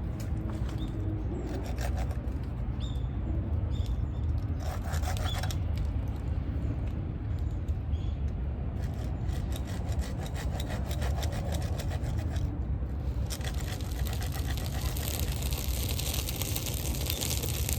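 Wood being worked in repeated scraping strokes, as when preparing kindling for a campfire, over a steady low rumble. The strokes come faster and denser in the last few seconds.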